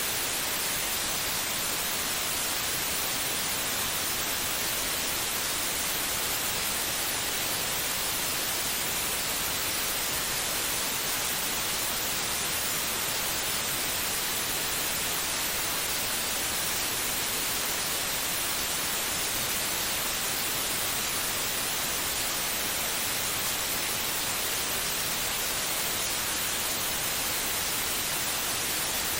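Steady white noise, an even, unchanging hiss strongest in the high frequencies, played as a soothing sleep sound for a baby.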